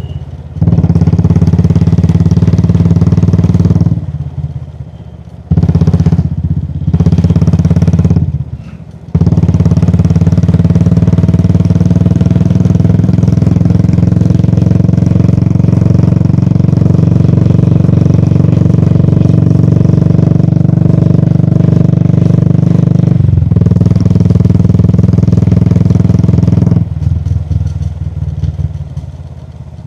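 Royal Enfield Classic 350's single-cylinder engine running under load on the move. Its low, steady note drops away briefly several times in the first nine seconds and once about two-thirds through, as the throttle is closed, then fades near the end.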